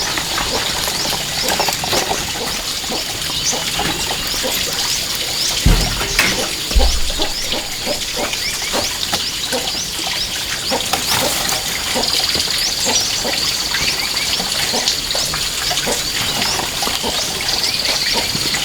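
Dense, rapid chirping of many small birds, with scattered clatter and two low thumps about six and seven seconds in.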